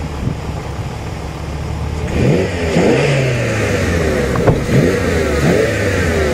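V10 sports car engine idling, then from about two seconds in revved in a quick series of throttle blips, the pitch rising and falling several times.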